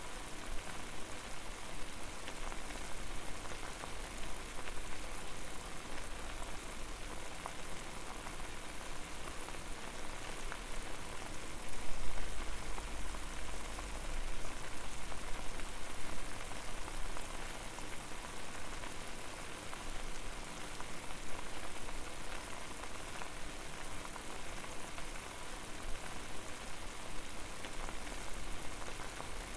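Water boiling hard in a pot over a fire: a steady dense bubbling and crackling hiss. A brief low rumble about twelve seconds in.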